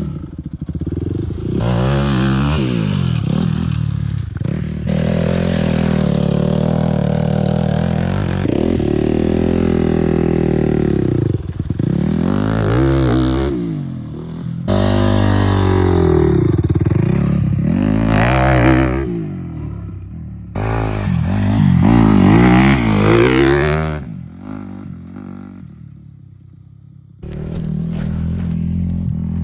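Dirt bike engine revving up and easing off again and again while riding, its pitch rising and falling. The sound changes abruptly several times and drops quieter for a few seconds near the end.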